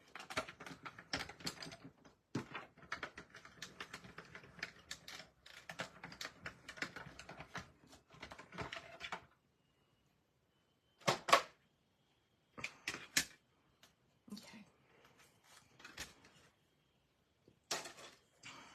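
Dense clicking and rattling of die-cutting for about nine seconds: a steel cutting die, plates and cardstock being handled and run through a die-cut machine. After a short pause come a few separate clacks of plates and die being handled, the loudest a sharp knock about eleven seconds in.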